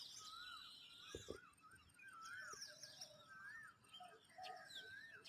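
Faint early-morning birdsong from several birds: a repeated arching whistled note and higher chirps and twitters. Two soft low thumps come about a second in.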